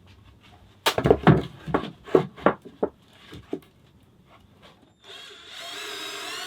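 About nine sharp knocks on wood in quick succession. Then, about five seconds in, a power tool starts running with a steady whine.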